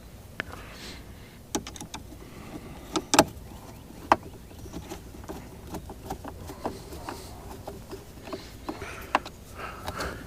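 Scattered clicks and light knocks of small screws and the plastic housing of a Mercury boat remote control being handled and fitted together. The sharpest knocks come about three seconds in and again about four seconds in.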